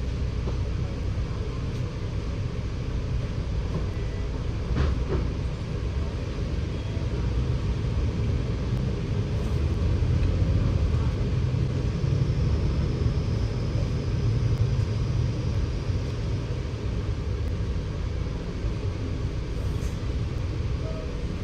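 Scania K94UB single-deck bus running on the road, a steady low engine and road rumble that swells a little in the middle, with a faint high whine for a few seconds.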